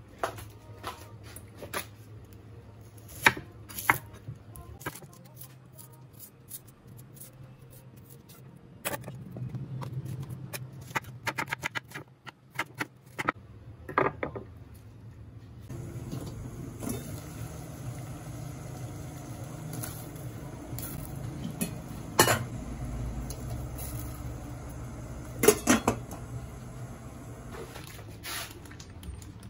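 Kitchen clatter: dishes, pots and utensils knocking and clinking in scattered sharp hits, a few of them loud. A steady low background hum comes in about halfway through.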